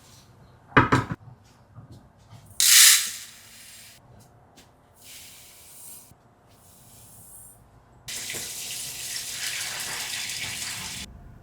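Kitchen tap running water into a sink: a short loud gush, two softer runs, then a steady flow for about three seconds that stops suddenly. A knock about a second in.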